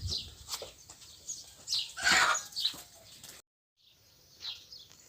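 Small birds chirping: many short, falling chirps, with one louder, harsher sound about two seconds in. The sound drops out for a moment a little past the middle.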